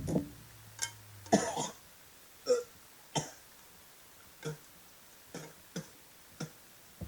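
A man's short coughs, gags and throat noises, about ten of them spread out, the longest and loudest about a second and a half in: he is retching while trying to swallow a giant water bug.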